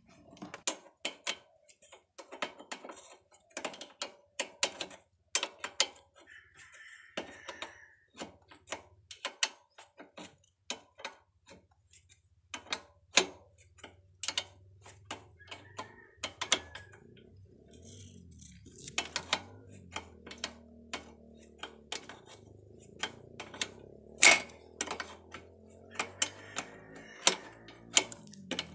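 Hand work on metal: irregular sharp clicks and taps, a few a second, with one louder knock about 24 seconds in. A faint low hum comes in about halfway through.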